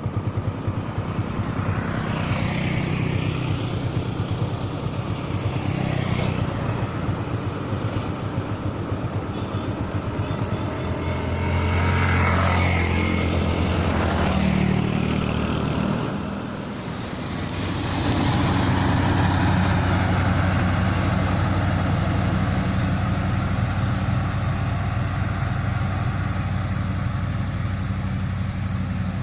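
Heavy diesel truck engine pulling under load up a steep climb: a steady low drone that dips briefly about two-thirds of the way through. Other vehicles pass by a few times, rising and then falling away.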